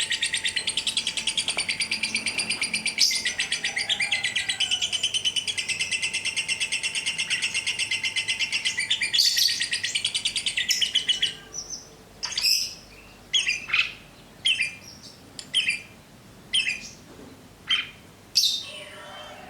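Caged songbirds singing: a long, very rapid high trill for about eleven seconds, then separate short sharp chirps about once a second.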